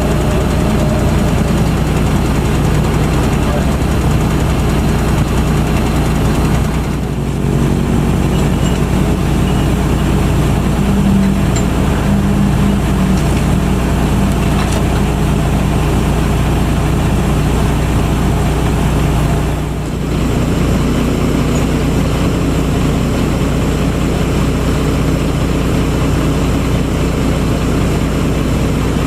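Large diesel truck engine idling steadily.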